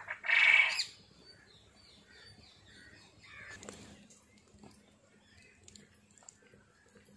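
A bird calls once, loud and about half a second long, near the start, followed by faint short chirps of other birds.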